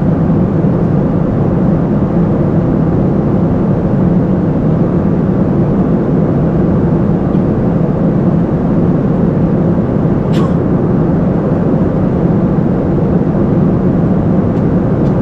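Steady cabin noise of a Boeing 747-400 in flight: engine and airflow noise heard inside the cabin as an even, low rumble. A single short click about ten seconds in.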